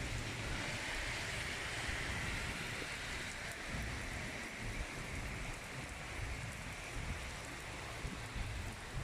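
Heavy rain pouring steadily: a dense, even hiss with a low rumble underneath.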